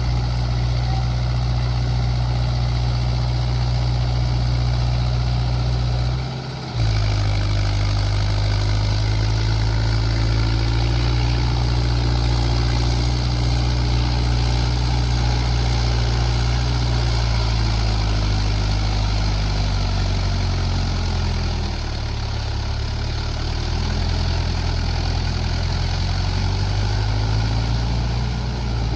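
Mahindra Yuvo 585 DI tractor's diesel engine running steadily as it works in mud, with a brief drop in level about six seconds in and its pitch sagging a little past the middle before picking back up.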